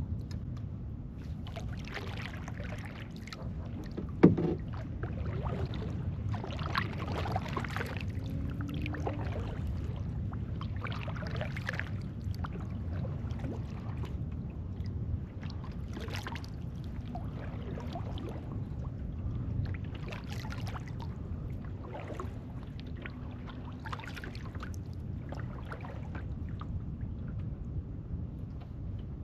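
Kayak paddle strokes splashing and dripping in calm water, coming irregularly every second or two over a steady low hum of wind and water. About four seconds in, one sharp knock, like the paddle or gear striking the kayak's hull, stands out as the loudest sound.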